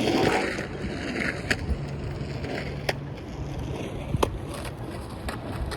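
Metal skateboard rolling over parking-lot asphalt with a steady rumble of the wheels and three sharp clicks about a second and a half apart.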